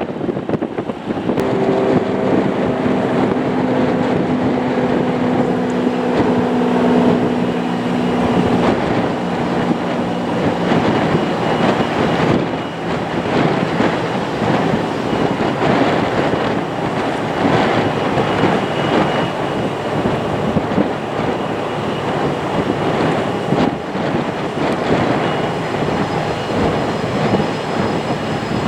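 Boeing 737-900ER's CFM56 jet engines running at high power on departure: a loud steady rush with several low humming tones over the first ten seconds or so, then a coarser, fluctuating noise.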